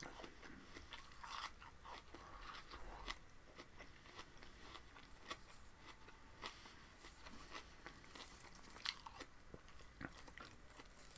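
Faint crunching and chewing of raw vegetables, with scattered small mouth clicks and a few slightly louder crunches.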